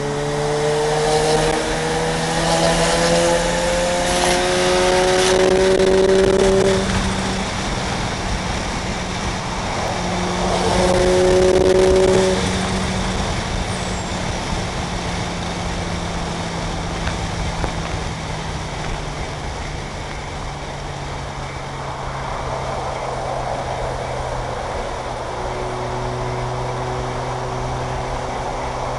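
Sports car's engine pulling hard at high speed from inside the cabin, its note rising for several seconds, easing off, then rising again briefly. After that it settles into a steady drone at speed under loud road and wind noise.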